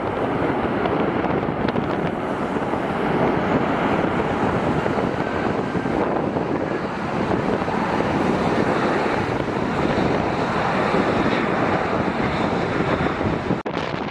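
Steady wind blowing on the microphone, a constant loud rushing, with a brief dropout near the end.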